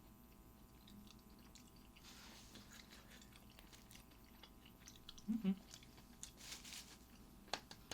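Faint mouth sounds of someone chewing mackerel sashimi, with a few wet clicks near the end and a brief closed-mouth hum about five seconds in.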